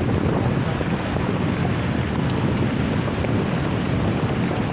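Steady rushing noise, with wind buffeting the microphone.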